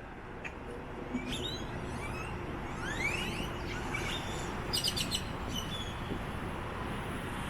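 Many birds calling from street trees: rising whistles and sharp clicks, with a quick rattle of clicks near the middle, over a steady hum of street traffic.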